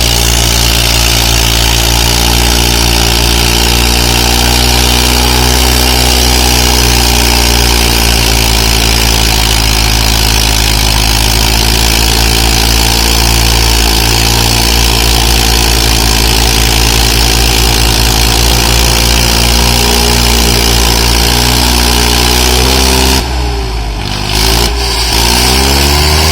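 Swaraj 855 tractor's three-cylinder diesel engine running at a steady, slightly wavering note. Near the end its pitch drops and then climbs back up.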